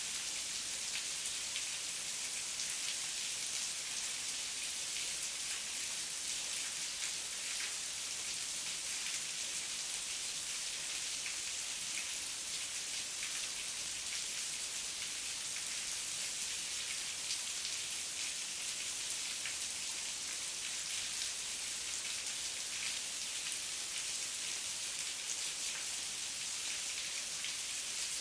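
Heavy rain falling steadily, a dense even hiss of countless drops with fine pattering and no thunder.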